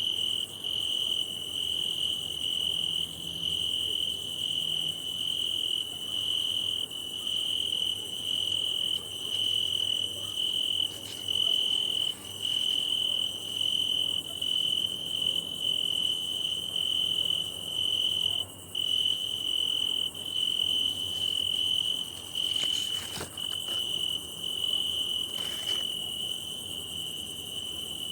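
A cricket singing: a steady, high-pitched trill made by rubbing its forewings together. It pulses slightly and drops out briefly about two-thirds of the way through.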